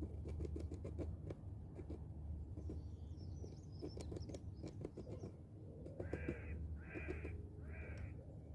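A run of small taps and scratches, then three harsh caws from a bird, less than a second apart, near the end.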